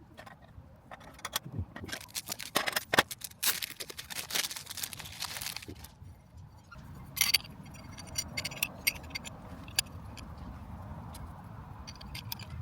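A busy run of clicks and scraping, like objects being handled and rubbed together, then a few scattered ticks over a steady hiss from about seven seconds in.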